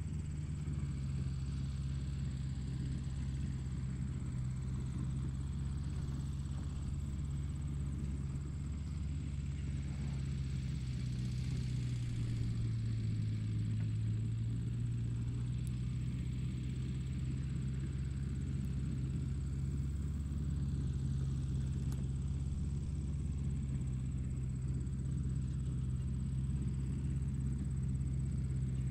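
Car engine idling steadily, heard from inside the cabin as a low hum that dips slightly in pitch about halfway through.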